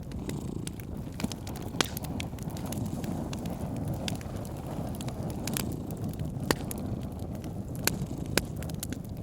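Wood fire crackling: irregular sharp pops and snaps, a few of them loud, over a steady low rumble.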